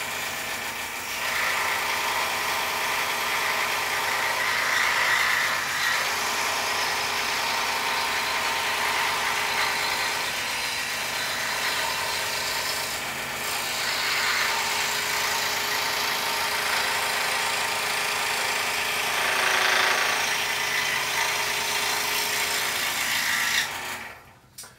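Scroll saw running steadily with a fine Olson Mach Speed #3 blade as it cuts the outline of a puzzle in poplar board. The saw is switched off near the end and the sound dies away quickly.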